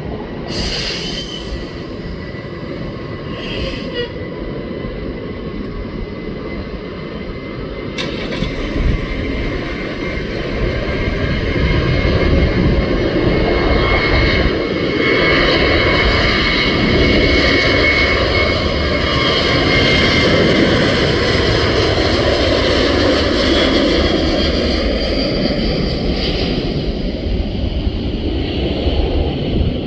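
Boeing 737 jet engines passing by: a steady jet noise with a high whine in it. It builds from about eight seconds in, is loudest through the middle, and eases off toward the end.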